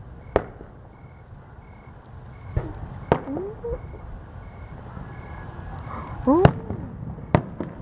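Aerial firework shells bursting: a sharp bang about half a second in, two around two and a half to three seconds, the loudest about six and a half seconds in, and two more close together near the end.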